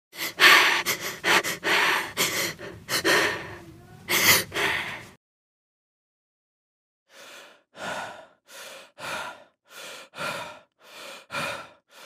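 A man's heavy, rapid gasping breaths for about five seconds. After a short pause, a quieter run of short, evenly spaced panting breaths, about two a second.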